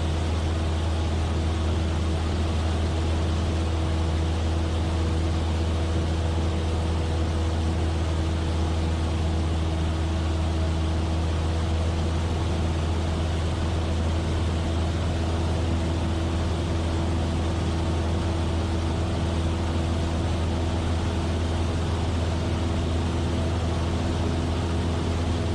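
Cessna 172F's Continental O-300 six-cylinder engine and propeller droning steadily in flight, a constant low hum with a few steady tones over it.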